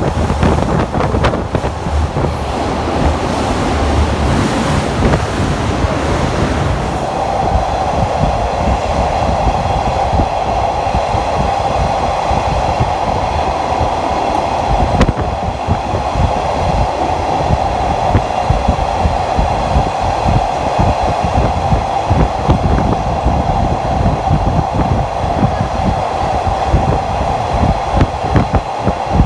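Train running on rails as heard from an open-air trolley car: a steady rumble with wheels clicking over the track, and a rush of wind for the first several seconds. About seven seconds in, a steady whine sets in over the rumble.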